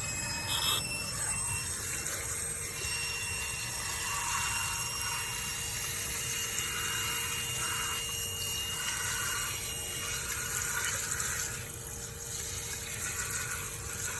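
Tap water running steadily and splashing onto a microwave exhaust filter as it is rinsed clean of degreaser and loosened grease.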